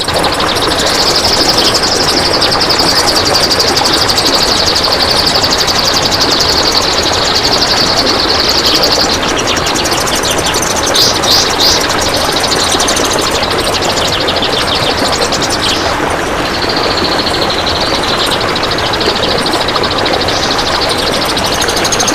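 Kapas tembak songbird giving long, dense rapid trills (besetan): one high trill held for about eight seconds, then a few short sharp notes and a second, shorter trill later on. A steady hiss lies under the song throughout.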